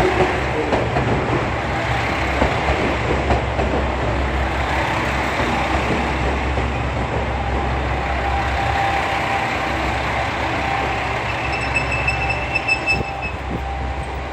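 Diesel limited express train running into the station, a steady heavy rumble with the clatter of wheels on rail, and a thin high squeal for a second or so near the end as it slows.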